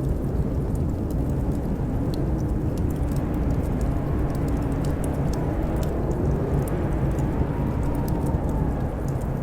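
Blizzard wind howling: a steady low rumble with a wavering whistle that slowly rises and falls in pitch, and light, scattered crackles of a wood fire.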